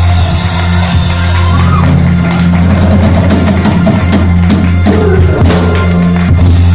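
Live band music played loud, with a heavy, steady bass and a drum kit beating out hits that stand out from about two seconds in.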